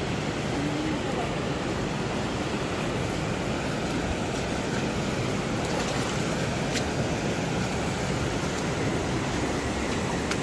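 Fast river water rushing steadily, with a couple of faint clicks about seven seconds in and near the end.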